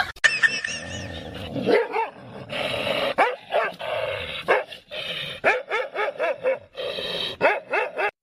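A dog barking in a quick series of short, high barks, several a second, that start about two seconds in and carry on.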